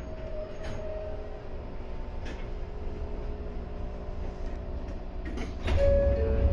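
Ryutetsu 5000 series electric train running along the track, heard from the cab: a steady low rumble with a few sharp clicks. Near the end it grows louder and two steady tones set in.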